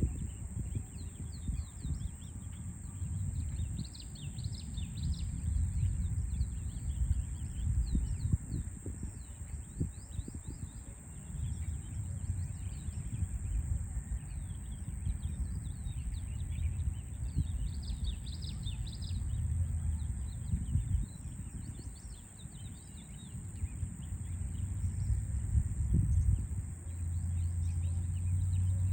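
Small songbirds chirping and twittering throughout, over a low rumble of city noise that grows louder and steadier near the end, with a constant high-pitched hiss above.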